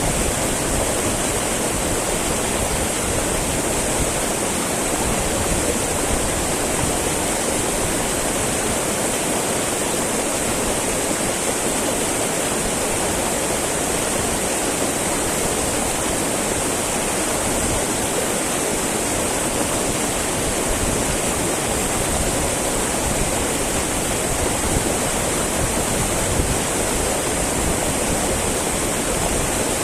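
Small mountain river babbling and rushing over stones, a steady, even wash of running water.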